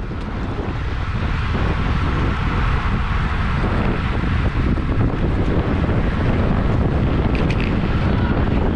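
Wind rushing over the microphone of a bike-mounted camera as a road bike races at speed in a criterium pack, building over the first couple of seconds and then steady.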